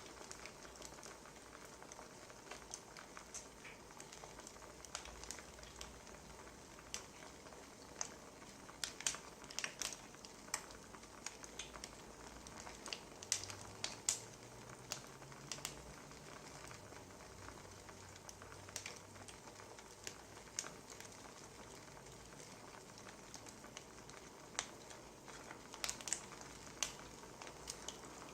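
Wood fire crackling: scattered sharp pops and snaps at irregular intervals over a faint steady hiss.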